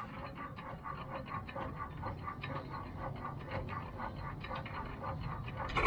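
Antique engine running with an even, quick beat of exhaust puffs, several a second, over a low rumble.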